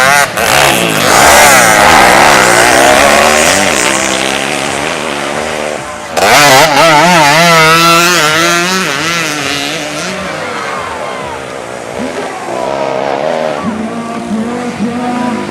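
Racing underbone motorcycle engines revving hard, their pitch wavering up and down as bikes pass. They are loudest twice: about a second in and again about six seconds in, then fade.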